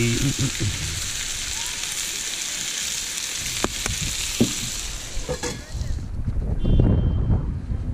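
Sausages, chicken and vegetables sizzling and frying in a cast-iron skillet, with a few light clicks. About six seconds in the sizzling stops and wind rumbles on the microphone.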